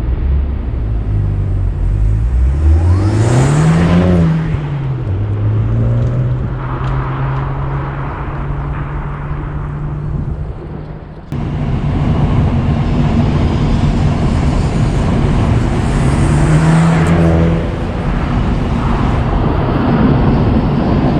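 Honda Civic Type R (FL5) 2.0-litre turbocharged four-cylinder running through a Mugen single-exit aftermarket muffler, with a deep, fairly quiet exhaust note. The pitch climbs and falls as the car accelerates, then holds steady. There is a sudden change about 11 seconds in, and a second rise and fall near the end.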